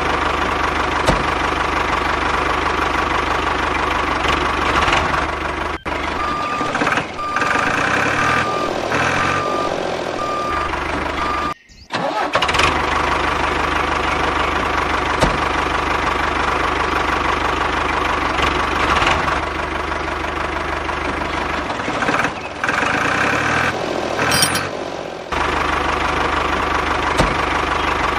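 Mini tractor engine running steadily at idle, with a knocking beat, and the sound cut off abruptly for a moment near the middle. A row of short, evenly spaced beeps sounds between about six and ten seconds in.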